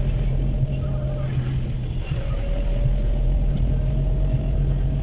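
Steady engine and road noise of a moving car, with a low hum and a faint steady whine above it. A single light click sounds about three and a half seconds in.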